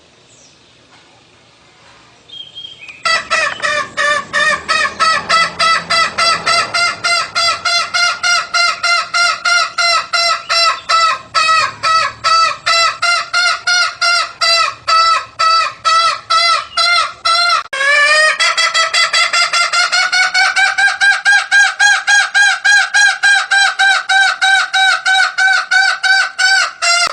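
Jungle fowl call played as a hunting lure: a long run of evenly repeated, pitched notes starting about three seconds in. Near two-thirds of the way through the run breaks briefly and resumes a little higher in pitch.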